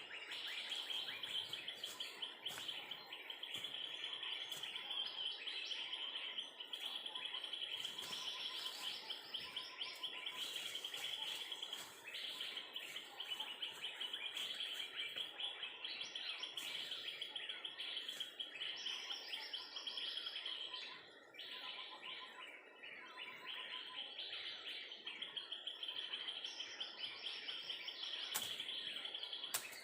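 Small birds chirping and twittering rapidly and without a break, a dense high chatter that thins briefly a little past the middle.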